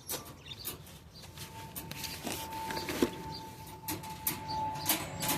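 Scattered clicks, knocks and rustles of handling, with a faint steady tone behind them.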